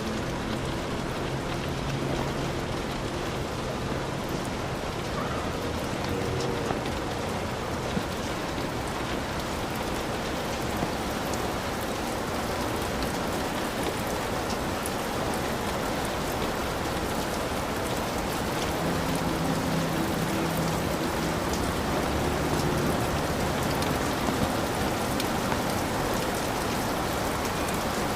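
Heavy rain pouring steadily, with scattered individual drops ticking through the dense hiss.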